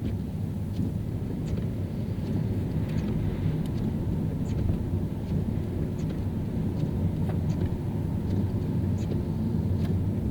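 Car driving on a wet city road: a steady low rumble of engine and tyres, with faint scattered ticks.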